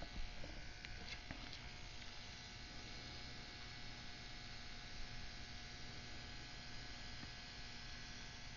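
Faint steady electrical hum over a light hiss, with a few small clicks in the first second or so.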